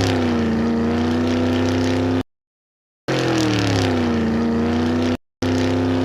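Recorded engine sound effect: a motor tone that drops in pitch and settles into a steady hum, then cuts off abruptly. It plays twice, with a short silence between, and starts a third time near the end.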